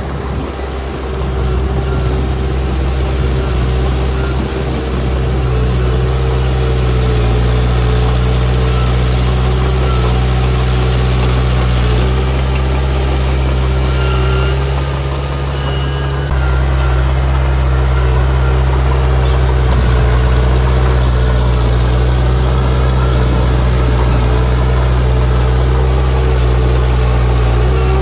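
Heavy diesel engine of earthmoving machinery running steadily with a deep, even hum. Its note shifts slightly about twelve seconds in and again about sixteen seconds in.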